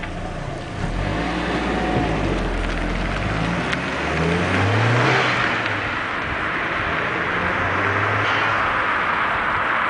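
Audi A4 1.8-litre turbocharged four-cylinder engine on its standard exhaust, revving up about four seconds in and then running on at higher revs with a rushing hiss over the exhaust note.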